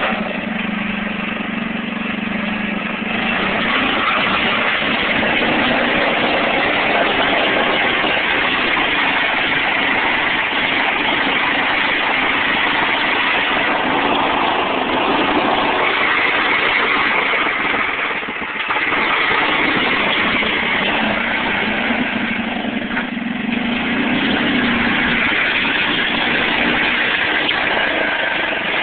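A tractor engine runs steadily while the tractor pushes gravel, with a few brief dips in level.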